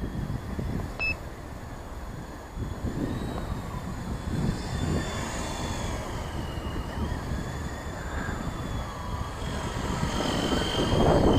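Brushless WLtoys V913 RC helicopter in flight, its motor and rotor whine rising and falling in pitch, with wind rumbling on the microphone. A short beep sounds about a second in, and the helicopter grows louder near the end.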